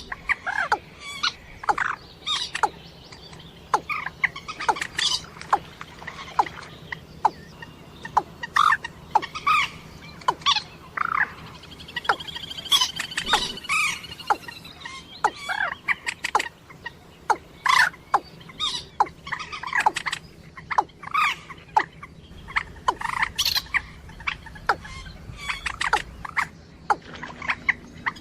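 Recorded calls of rail-family waterbirds, moorhen and watercock, played as a hunting lure: a dense, irregular string of short, sharp notes, several a second, with one longer drawn-out call near the middle.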